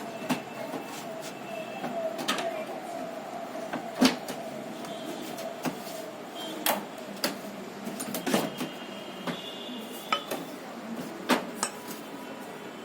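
Scattered clicks and knocks of parts and tools being handled, about a dozen at uneven intervals, over a steady hum.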